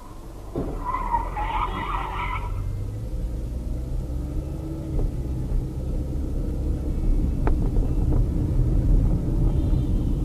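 Steady low rumble of a car driving, as picked up by a dash cam. About a second in there is a brief higher-pitched sound, and a couple of sharp clicks come near the end.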